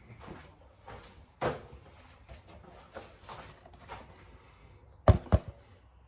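Someone eating with scattered soft clicks of chewing, a sharper click about a second and a half in, and two loud sharp knocks close together near the end.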